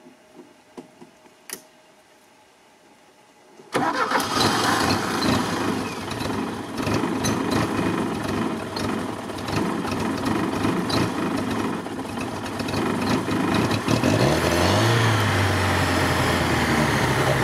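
LuAZ engine starting after water had got into its cylinders. About four seconds in it fires abruptly and runs unevenly, and near the end its note rises and settles into a steadier idle.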